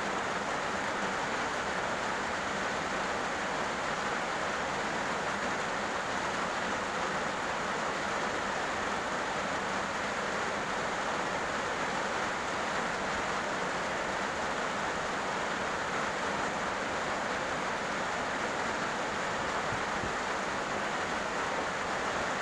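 Heavy rain falling on a road, a steady, even hiss without breaks.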